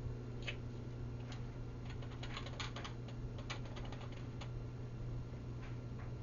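A cat pawing and scratching at the plastic of an automatic pet feeder, trying to get food out: a run of light clicks and taps, thickest a couple of seconds in, over a steady low hum.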